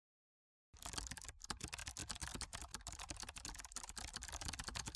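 Fast typing on a computer keyboard: a dense run of key clicks that starts after a moment of dead silence, about a second in.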